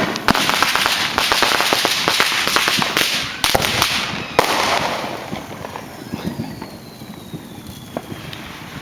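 Consumer fireworks going off: a rapid, dense string of firecracker bangs, like automatic gunfire, for about four seconds, ending in a louder single bang. A thin whistle then falls slowly in pitch over the next few seconds.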